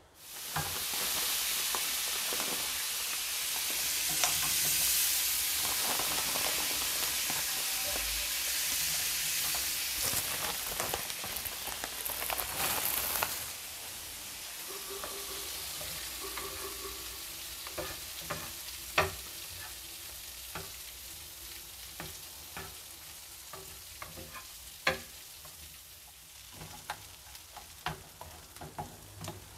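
Chips frying in hot oil in a pan on a gas stove: a loud sizzle that starts at once and eases off about thirteen seconds in. Now and then a utensil clicks against the pan as the food is stirred.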